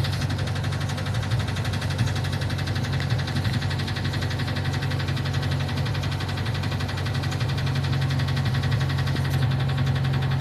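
Ford engine running with a fast, even, loud knock: rod knock from a worn connecting-rod bearing.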